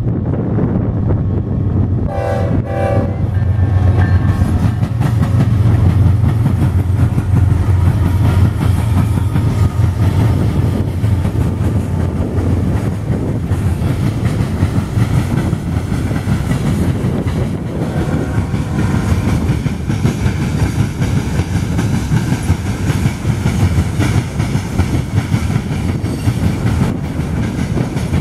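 A BNSF freight train passing at speed, led by GE ES44DC, ET44C4 and ES44C4 diesel locomotives: two short horn blasts about two seconds in, then the locomotives' low diesel rumble as they go by. After that, a long string of covered hopper cars rolling past, their wheels clicking over the rail joints.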